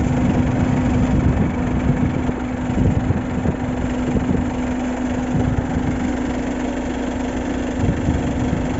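Shacman diesel truck engine idling steadily, with a constant low hum.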